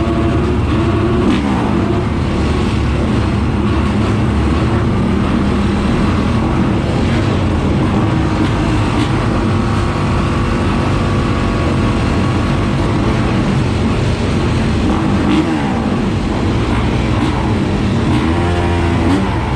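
Motocross bike engines (450cc four-strokes) revving hard, their pitch rising and falling over and over with the throttle.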